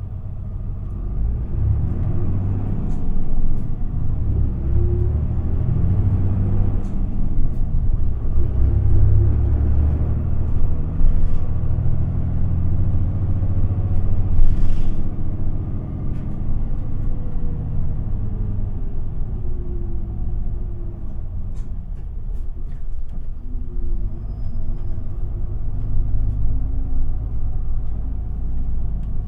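Interior sound of an Isuzu Erga city bus's diesel engine pulling under load, its note rising and falling several times as the bus gets under way and changes speed. A brief hiss cuts through about halfway.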